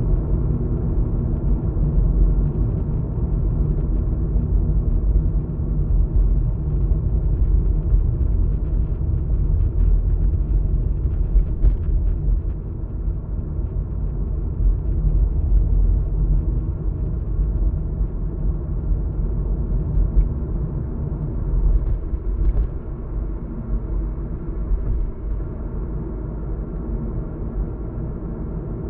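Steady low rumble of a car's road and engine noise heard from inside the cabin while driving, easing slightly about halfway through, with a couple of faint clicks.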